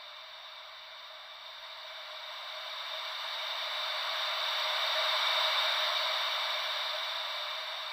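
Gentle ocean waves: a rushing hiss that slowly swells to a peak about five seconds in and then eases back, thin and without any deep rumble.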